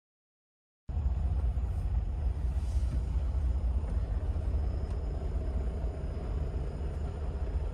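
Steady low rumble of a semi-truck's diesel engine idling, heard from inside the cab. It starts abruptly about a second in.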